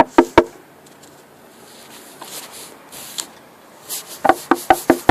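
Quick runs of sharp taps or knocks, about five a second: a few at the very start and a run of about eight near the end, with a low steady hum between them.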